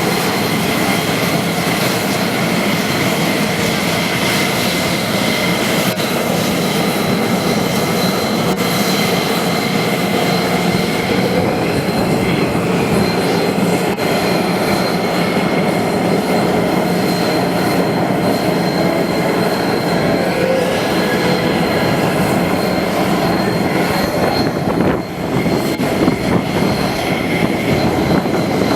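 F-16 jet engines running at low power on the ground, a steady loud rush with a high, even whine.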